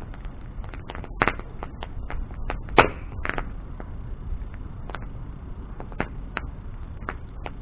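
Bonfire crackling, with irregular sharp pops and snaps over a low steady rumble; two louder pops come about a second and a half apart, a little past a second in.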